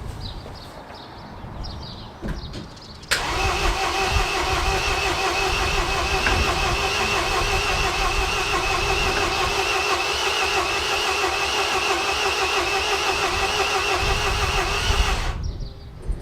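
Starter motor cranking a MINI R56's 1.6 HDi DV6 diesel engine for about twelve seconds, its whine wavering evenly with the compression strokes, then stopping abruptly without the engine firing: the engine won't start.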